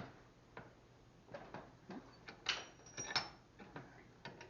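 Scattered light clicks and knocks of a steel pipe piece being handled, with a brighter metal clink about two and a half to three seconds in that rings briefly.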